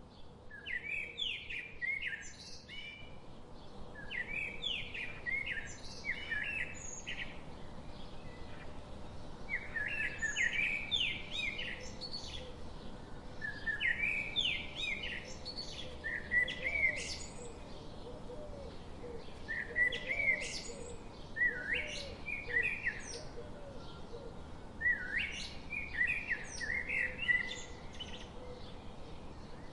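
Songbirds chirping in repeated bursts of quick high notes a few seconds apart, over a faint steady background hiss.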